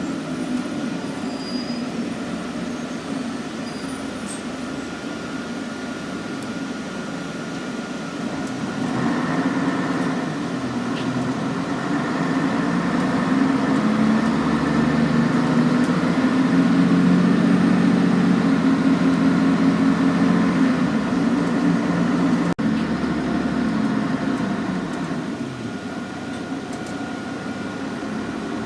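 Scania N113CRB city bus's diesel engine running, growing louder as it pulls from about nine seconds in and easing off again after about twenty seconds.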